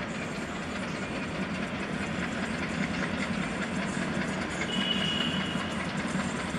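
Diesel locomotive-hauled train running, with a steady low rumble and a continuous rattle of wheels and wagons. A brief high-pitched tone sounds about five seconds in.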